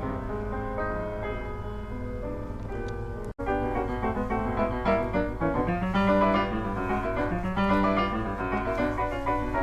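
Piano music. It cuts out abruptly about a third of the way in and resumes as a busier, faster-moving piano passage.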